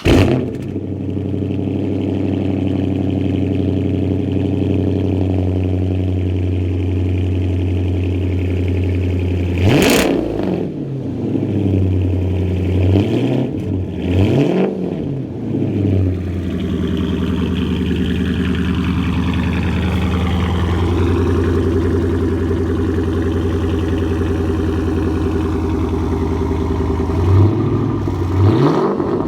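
2011 Dodge Charger R/T's 5.7-litre Hemi V8 with a straight-piped exhaust, firing up and idling loudly. It is revved sharply once about ten seconds in, blipped several times a few seconds later, and revved again near the end.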